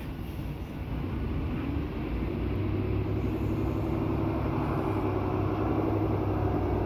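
Semi-truck diesel engine running under a light load, getting louder and rising a little in pitch a second or two in, then holding steady.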